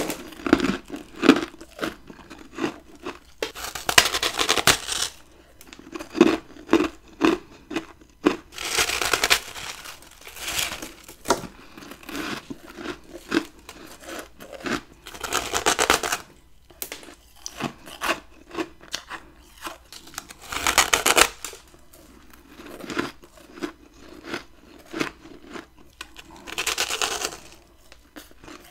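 Close-up bites and chews of a chunk of freezer frost: rapid sharp crunches and crackles, with a longer, louder crunching bite about every six seconds.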